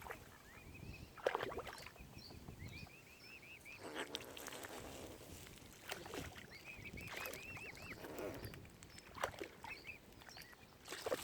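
Birds calling: several quick runs of short, high chirps, with a few lower, harsher calls between them.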